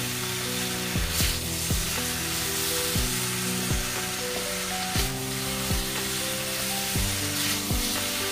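Sauce-coated chicken pieces sizzling in a hot wok as they are stir-fried with a wooden spatula. Background music with held notes and a steady kick-drum beat plays over the sizzling.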